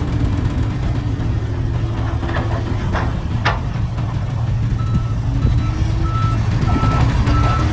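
Heavy diesel construction machinery running with a steady low rumble, its pitch rising and falling a little, and a couple of sharp knocks near the middle. About five seconds in a reversing alarm starts beeping, about two beeps a second.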